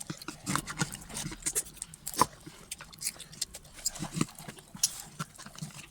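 Close-up eating sounds: wet chewing and lip smacking in a quick, irregular run of smacks and clicks, with one louder smack about two seconds in.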